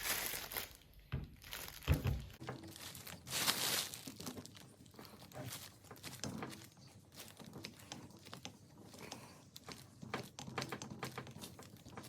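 Grease gun being worked on the grease nipple of a hedge trimmer's blade gearbox, forcing new grease in: irregular clicks, knocks and squelchy handling noises, with a few sharper knocks in the first few seconds.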